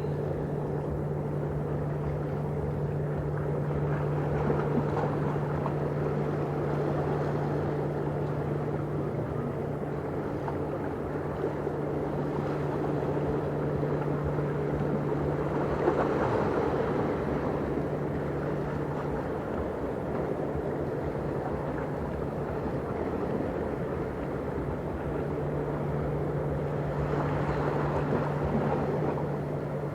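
Steady drone of a large ship's engines and machinery, with a low hum that fades out for a few seconds past the middle and then comes back.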